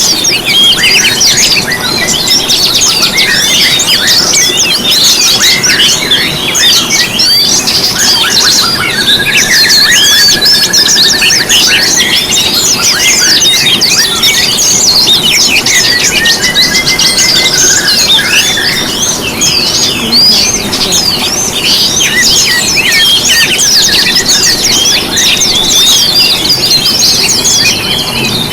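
A dense chorus of songbirds singing and chirping over one another without a break, with fast high twittering throughout and a couple of longer, lower trills along the way.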